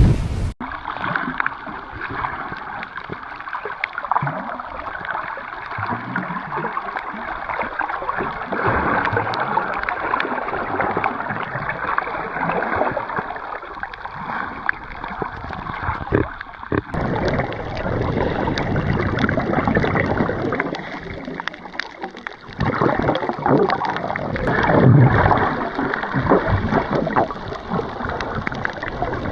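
Muffled gurgling and sloshing of sea water around the camera as someone wades and swims. About half a second in the sound turns suddenly duller, and irregular surges of water follow.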